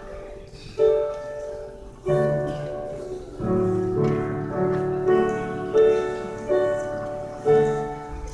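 Piano playing a slow run of chords without singing, each struck sharply and left to fade, about one a second.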